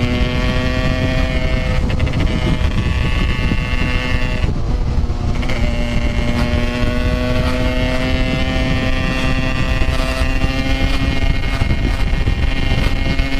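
Yamaha RX-King 135cc two-stroke motorcycle engine pulling hard while riding, its high steady note slowly climbing, with wind rushing over the microphone. The note breaks off briefly about four and a half seconds in, as at a throttle lift or gear change, then picks up and climbs again.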